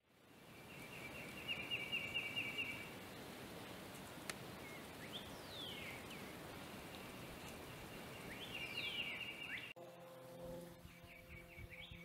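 Wild songbirds singing: a fast trill heard twice, with a few down-slurred whistled notes between, over steady outdoor background hiss. It fades in from silence at the start, and the background changes abruptly near the end.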